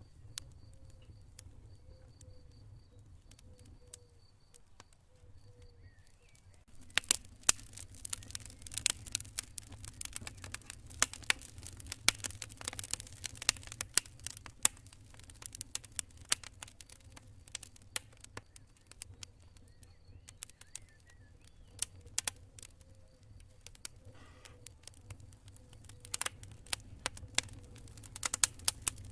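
Campfire crackling and popping in quick sharp snaps, thickest from about seven seconds in to fifteen and again near the end, over a steady low rumble. Faint high cricket chirping pulses in the first few seconds.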